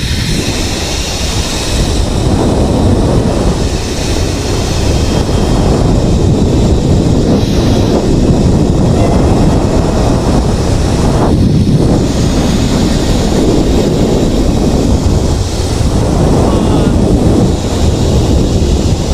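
Strong wind rushing and buffeting over the microphone during a fast zipline ride, loud and steady without a break.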